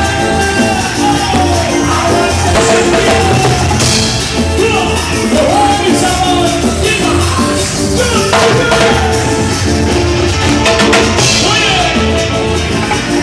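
Band music in a Latin style, with a steady bass and drum beat under melodic lines that slide up and down in pitch.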